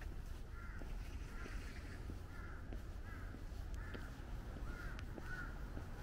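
A bird calling over and over: about seven short calls, each under a second apart, over a steady low rumble.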